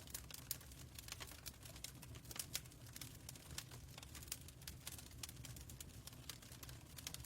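Fireplace crackling faintly: many irregular sharp pops and snaps over a steady low rumble.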